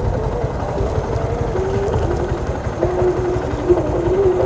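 Motorcycle riding on the road, with wind buffeting the microphone and a steady engine hum that drifts lower in pitch over a few seconds.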